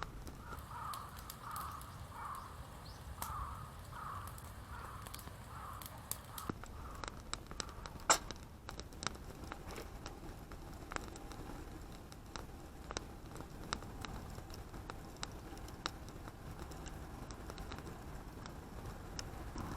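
Scattered sharp crackles and clicks over a low steady rumble, with one louder crack about eight seconds in. A bird calls repeatedly, about once every 0.7 seconds, through the first six seconds.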